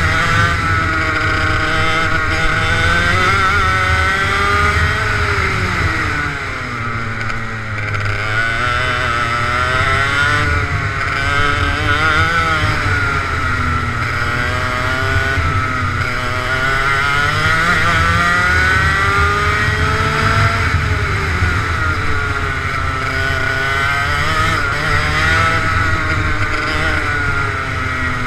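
Kart engine running on track, its pitch climbing and dropping every few seconds as the throttle is opened and lifted.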